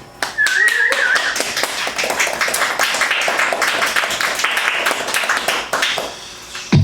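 Small audience clapping after a song, with a short wavering whistle near the start.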